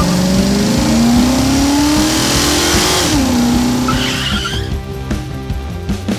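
Cartoon vehicle sound effect: an engine revving with its pitch rising for about three seconds, then dropping, with a tyre skid hiss around the drop. Background music takes over in the second half.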